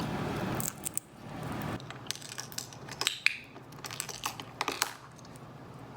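Quaker parrot (monk parakeet) eating a treat: a brief rustle, then irregular small clicks and crunches of its beak on the food, with a short high chirp about three seconds in.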